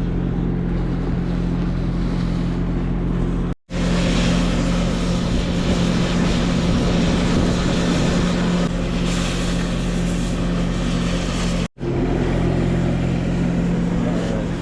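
An engine running steadily at an even speed, with a constant low hum. It drops out abruptly twice, for an instant each time, about three and a half seconds in and again near the end.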